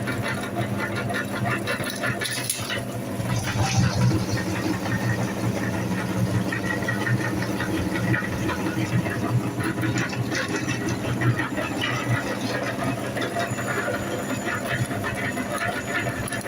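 Mini tractor's engine running steadily with a busy rattling clatter.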